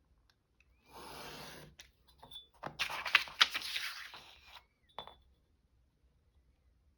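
Paper being handled and folded, rustling and crackling in two stretches, with a sharp click about five seconds in.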